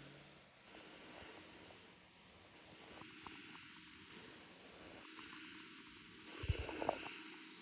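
A freight train passing: a faint steady rumble, with a short cluster of knocks about six and a half seconds in.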